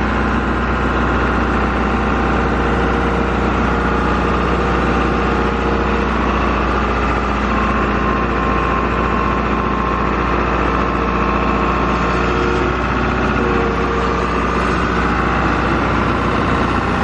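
Tractor engine running steadily at an even speed while its loader forks ease a heavy load into place.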